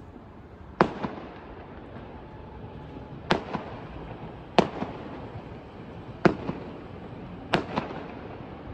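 Aerial firework shells bursting: five sharp bangs spaced one to two seconds apart, each followed a moment later by a fainter second crack.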